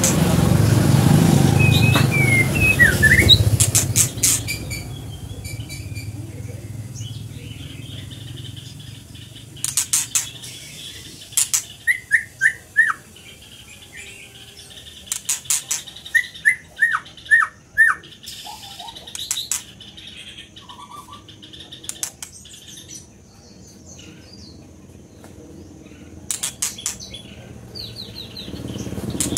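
A songbird singing in short phrases: quick falling whistled notes mixed with sharp clicks, with pauses between the phrases. A low rumble in the first few seconds.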